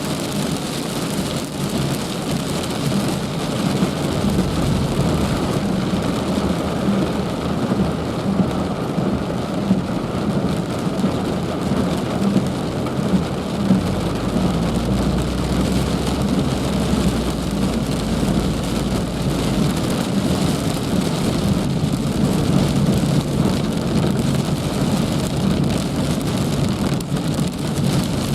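Heavy rain falling steadily on surfaces, a dense even hiss. About halfway through a low rumble rises under it for several seconds and fades.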